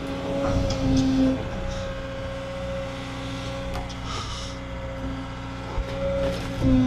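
CAT 315 excavator's diesel engine running under load with a steady hydraulic whine; a lower tone swells and drops back several times as the hydraulics are worked.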